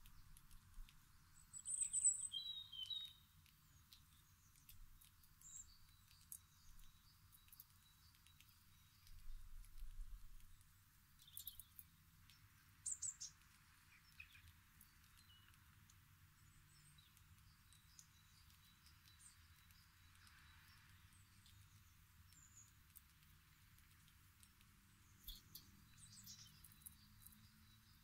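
Sparse, faint bird chirps: a few short high-pitched calls, loudest about two seconds in, with more single chirps scattered later, and a few faint clicks among them.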